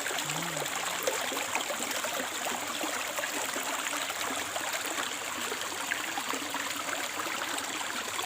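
Steady rush of flowing canal water.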